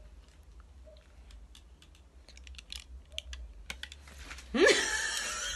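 Scattered light clicks and taps. About four and a half seconds in, a much louder voice sound with a rising pitch begins.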